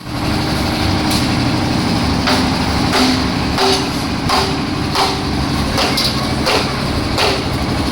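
A construction machine's engine running steadily, with sharp metallic clanks and knocks repeating about every two-thirds of a second.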